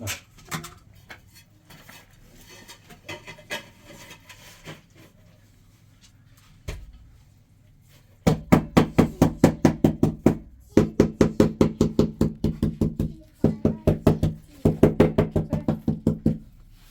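Light scattered clicks and knocks, then from about eight seconds in a fast, even knocking of about eight strokes a second. It comes in four runs of one to three seconds each, with short breaks between them, and each stroke has a deep, hollow ring.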